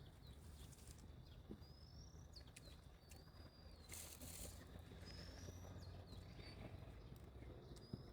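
Faint outdoor ambience with several short, high bird chirps spread through it, over a steady low rumble, and a brief hiss about four seconds in.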